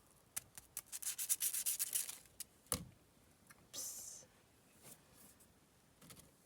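A quick run of short scraping strokes for about two seconds, then a single knock and a brief hiss.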